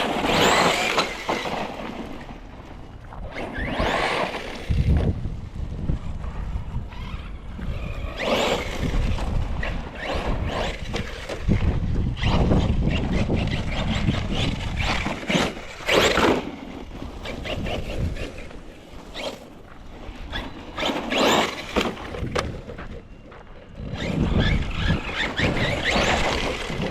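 Team Corally Kagama 6S RC truck being driven hard over rough ground: its brushless motor whines in repeated bursts of throttle, with tyres spraying dirt and gravel and several sharp knocks from landings and crashes.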